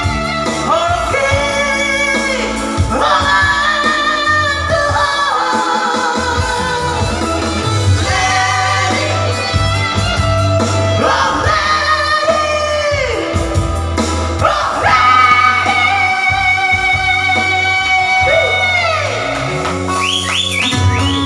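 People singing a song over instrumental backing with guitar and bass, in a singing practice.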